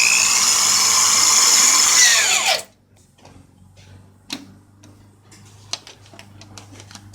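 Electric drill running at speed with a steady high whine, released about two and a half seconds in so the motor winds down in pitch and stops. A few light clicks and knocks of handling follow.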